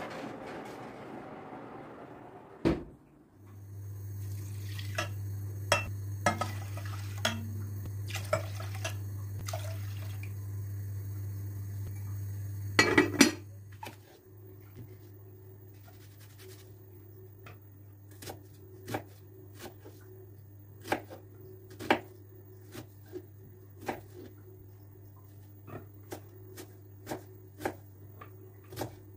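Dishes and cutlery clinking and knocking as they are handled, in scattered single taps over a steady low hum. There is a louder clatter about halfway through.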